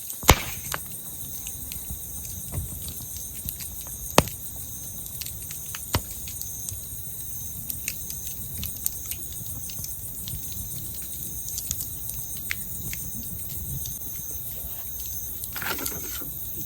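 Wood campfire crackling, with a few loud sharp pops from the burning firewood among many small snaps and a low steady rumble from the flames. Crickets chirp steadily behind it.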